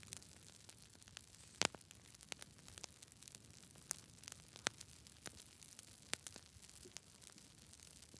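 Campfire crackling faintly: irregular sharp pops of burning wood over a soft steady hiss, the loudest pop about one and a half seconds in.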